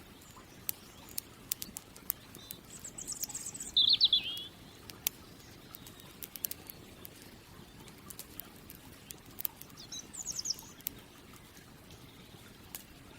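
Campfire crackling with scattered sharp pops over a low steady hiss, while a songbird sings short high trills: two phrases about three and four seconds in, the second the loudest sound here, and another near ten seconds.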